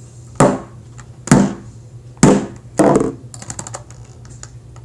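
Small hammer knocking plastic Rubik's Cube pieces into the cube: four sharp knocks in under three seconds, then a run of light clicks.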